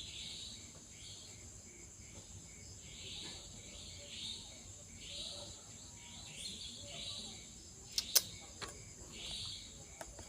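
Insects chirping: a steady high-pitched buzz with a pulsed chirp about once a second, and a few sharp clicks about eight seconds in.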